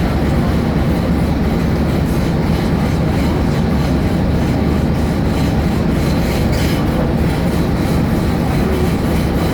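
Vintage diesel railbus running along the track, heard from on board: a steady rumble of the engine and wheels on the rails.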